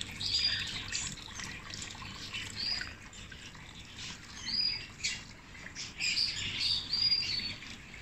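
Small cage birds giving short, high chirps every second or so, over the faint trickle of a small decorative water fountain.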